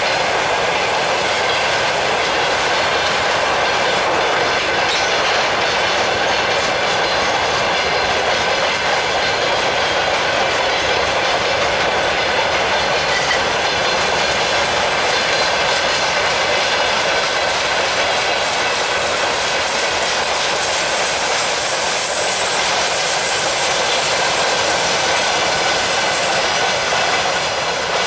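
Freight train's open wagons rolling past close by: a loud, steady rolling rumble with repeated wheel clacks over the rail joints, starting to fade right at the end as the last wagons go by.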